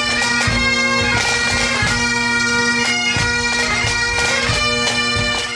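Highland bagpipes playing a tune: the chanter's melody moves over a steady, unbroken drone, with a few low thumps underneath.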